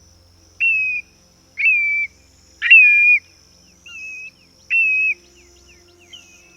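Black-bellied plover calling: a clear whistled note repeated about once a second, each one sliding sharply up, holding, then dipping slightly, with a fainter call near the end.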